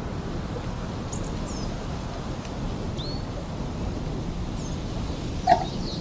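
Steady rush of flowing stream water in a forest, with small birds chirping a few times. A single light clink sounds near the end.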